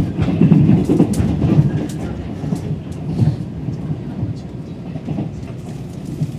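Moving passenger train heard from inside the carriage: a steady low rumble of wheels on the track with scattered sharp clicks, loudest in the first couple of seconds, then easing slightly.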